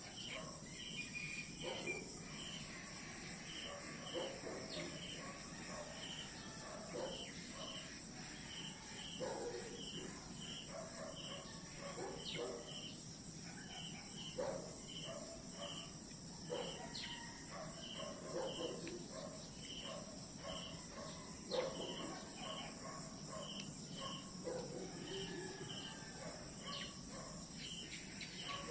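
Night insect chorus: a steady high-pitched insect trill under a cricket chirping in short pairs, about one pair every second or two. Irregular lower-pitched calls sound in between.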